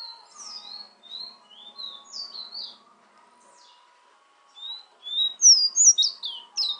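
Guyanese fire red bird singing: a string of short whistled notes that slide up and down, with a pause about halfway, then louder, quicker notes near the end.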